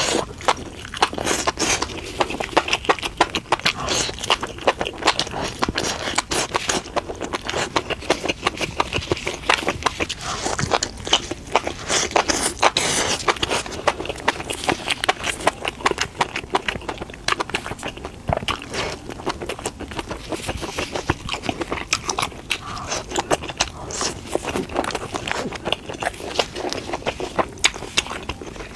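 Close-miked sounds of a person eating: dense, irregular biting, chewing and crunching.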